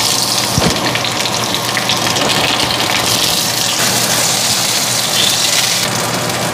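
Bell pepper strips sizzling steadily in hot olive oil in a cast-iron skillet as they are stirred with a spatula.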